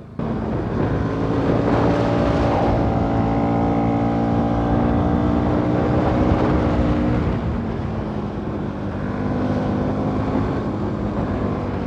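Bajaj Pulsar NS200's single-cylinder engine running at steady revs under way, with wind noise on the microphone; the revs ease off a little about eight seconds in.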